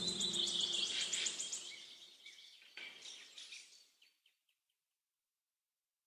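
Birds chirping: quick high chirps and a falling trill that fade away about four seconds in, leaving silence.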